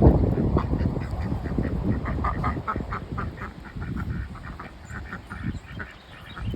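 Ducks quacking in a rapid run of short calls, with wind rumbling on the microphone.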